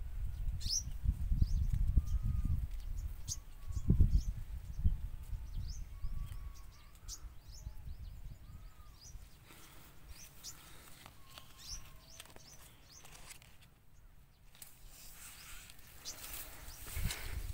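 Small birds chirping and calling, with many short high chirps, over a low rumble that is loudest in the first few seconds.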